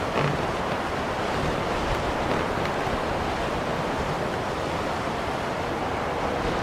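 Blizzard wind blowing as a steady, even rushing noise.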